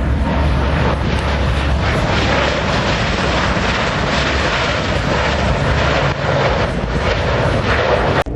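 Fixed-wing aircraft engine noise at an air show, a loud, steady rushing roar that cuts off suddenly near the end.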